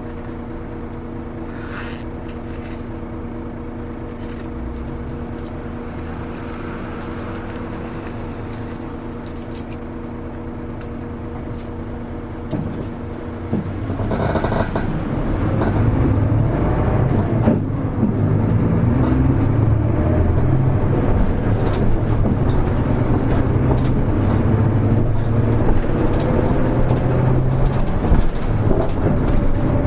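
Hino Rainbow HR city bus's diesel engine heard from inside the cabin, idling with a steady hum. About 14 seconds in it pulls away under load and gets louder, with light rattles throughout and a rising whine near the end.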